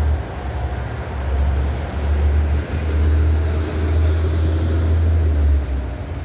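Low rumble of road traffic, with heavy trucks going by.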